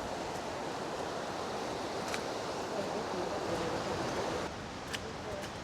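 Steady rush of flowing river water, with a couple of faint clicks; the rushing drops a little about four and a half seconds in.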